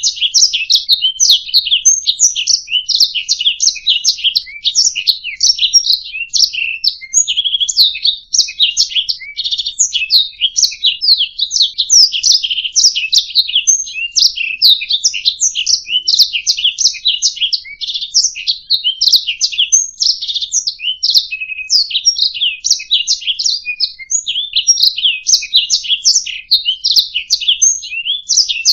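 Domestic canary singing a continuous, fast warbling song of rapid trills and chirps, high-pitched and without pause.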